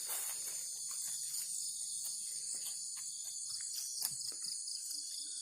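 Steady high-pitched chorus of insects, with a few light scattered clicks.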